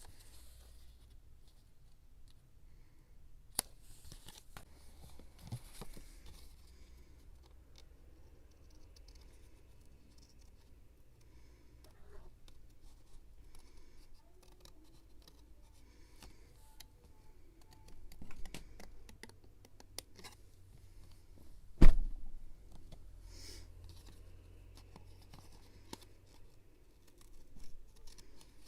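Scrapbooking paper and craft supplies being handled: scattered rustles, small taps and scratchy paper sounds, with one sharp knock about three-quarters of the way in.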